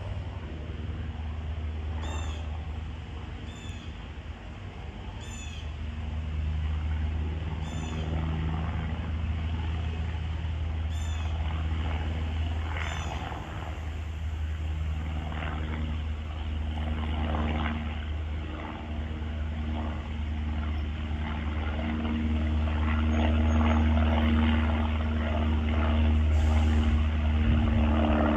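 Cessna 172K Skyhawk's four-cylinder piston engine and propeller droning steadily overhead on landing approach, growing louder in the second half as the plane comes closer. A bird chirps repeatedly through the first half.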